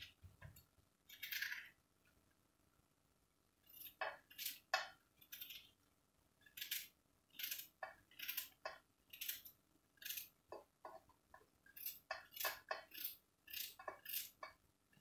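Knife cutting an onion: a series of short, crisp cuts, a few at first, then after a pause a steady run of about one to two a second from about four seconds in.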